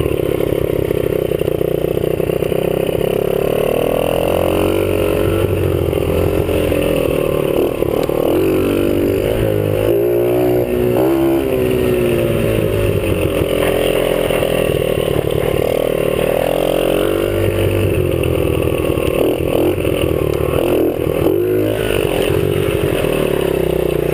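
50cc dirt bike engine running while ridden, its pitch rising and falling again and again as the throttle opens and closes, heard close up from the rider's chest.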